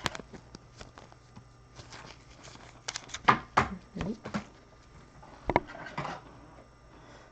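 Trading cards and their plastic sleeves being handled: scattered short rustles, clicks and light taps, bunched together about three seconds in and again near six seconds, over a faint steady hum.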